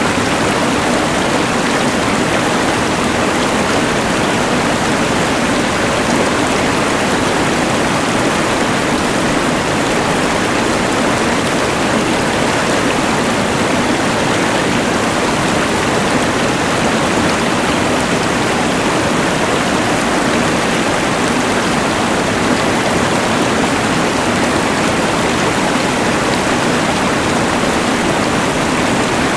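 Steady rush of a mountain river's water blended with the even hiss of a LectroFan white noise machine, unchanging throughout.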